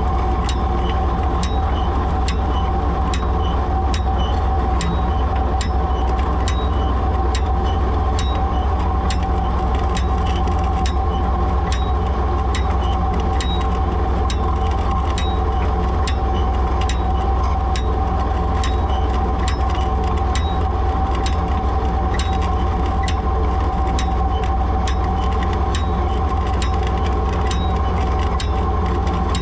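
Ford 3000 tractor's three-cylinder engine running steadily under load while pulling a one-row planter, with a regular click about twice a second throughout.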